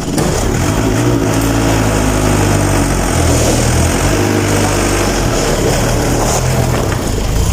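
Loader's diesel engine running loudly, its speed rising and falling several times as the throttle is worked.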